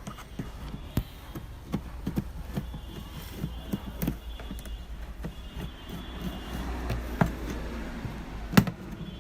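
Irregular knocks, taps and clicks of an amplifier unit and tools being handled on a workbench, with one sharper knock near the end, over a low steady hum.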